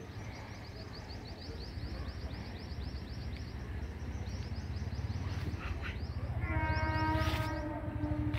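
Jaipur Express passenger train running past with a steady low rumble. Its horn sounds about six and a half seconds in and is still going at the end. Rapid high chirps run through the first half.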